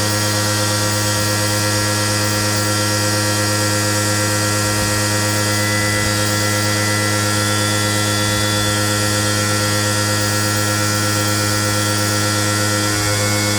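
Loud, steady electrical hum with a hiss over it, unchanging throughout.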